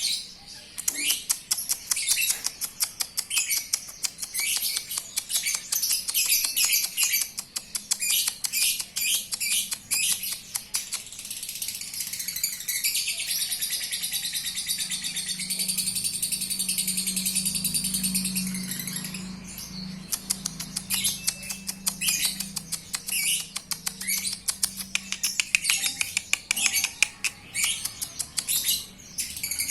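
Lovebird singing: fast, high-pitched chattering runs broken by short pauses, with one long unbroken trill lasting several seconds in the middle.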